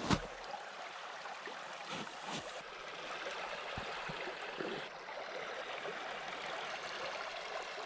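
A creek flowing steadily, with a sharp click right at the start.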